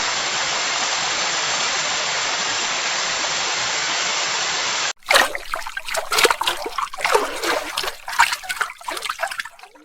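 Storm sound effects: a steady rushing hiss for about five seconds, then an abrupt cut to irregular splashing and trickling water, fading near the end.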